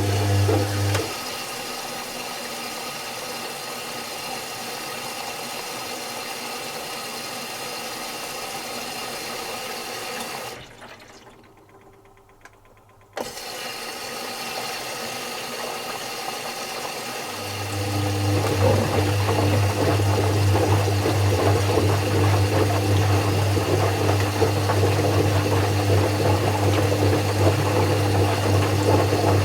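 Zanussi FC1000 compact washing machine running its cycle. A steady low hum cuts out about a second in, and the machine runs on more quietly. It then falls almost silent for a couple of seconds, comes back with a click, and a loud low hum with louder mechanical and water noise starts again well past the middle.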